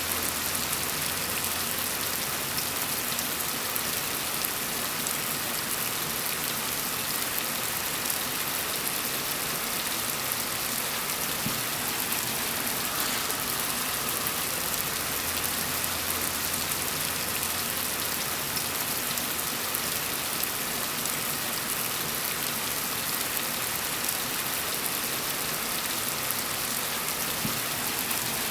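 Steady rain falling and pattering on a surface, an even hiss with no changes.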